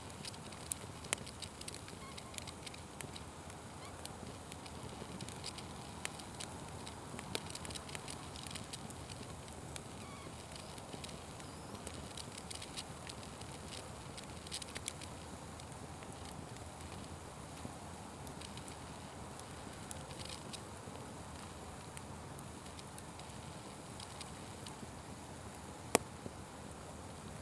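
Wood fire burning with a steady hiss and frequent small crackles and pops; one sharp, loud pop near the end.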